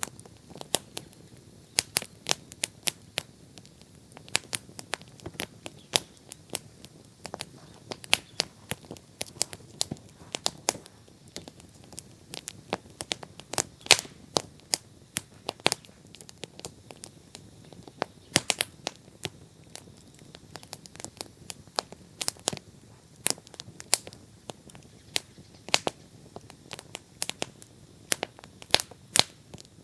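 Wood bonfire crackling: irregular sharp pops and snaps, several a second, some much louder than others, over a faint steady hiss.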